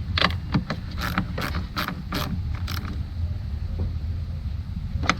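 Ratchet wrench with a 13mm socket tightening a nut onto the fuse box's cable-terminal stud: a string of separate clicks through the first three seconds, over a steady low hum.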